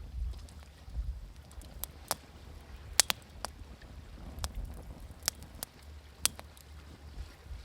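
Wood fire crackling, with irregular sharp pops (the loudest about three seconds in), over a steady low rumble.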